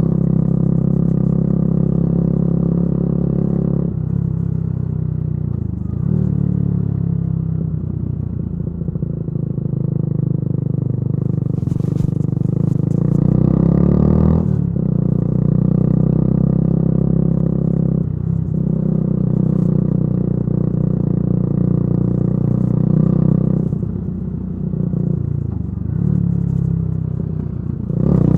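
Yamaha YZF-R125's single-cylinder four-stroke engine through a modified exhaust, ridden under way. The engine note climbs in pitch and then drops sharply several times, as the rider changes gear and rolls on and off the throttle.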